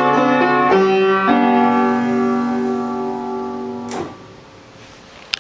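Piano playing the closing bars of a waltz. A last chord is held and slowly fades, then stops with a soft thump about four seconds in, and a short click follows near the end.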